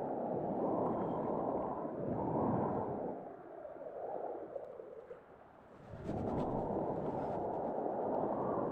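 Wind rushing over the microphone by the sea, a low noise that swells and eases in gusts and drops away briefly about five seconds in.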